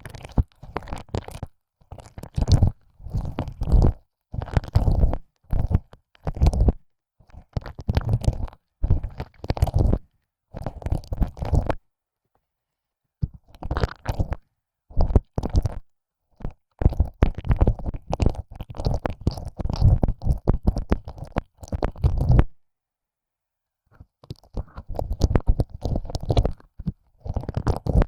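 ASMR ear licking: a tongue licking and pushing in and out of an ear hole, wet smacking and slurping in short bursts with brief pauses between them. The sound drops out completely twice, about halfway through and a few seconds before the end.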